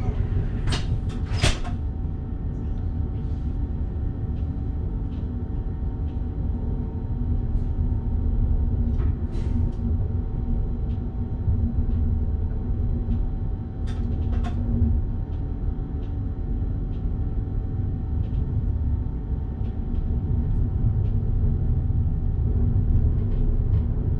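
Electric train running, heard from the driver's cab: a steady low rumble with a faint hum, and scattered sharp clicks and knocks, a few near the start and a pair around the middle.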